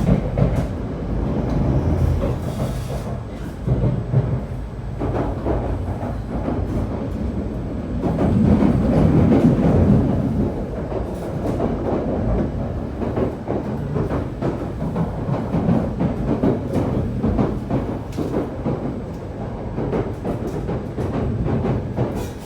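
E7 series Shinkansen running at speed, heard from inside a passenger car: a steady rumble of wheels and track with frequent small knocks, swelling louder about eight to ten seconds in.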